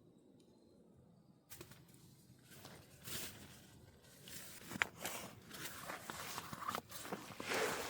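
Quiet at first, then from about a second and a half in, irregular rustling with scattered sharp clicks and knocks, growing louder toward the end, as of gear being handled.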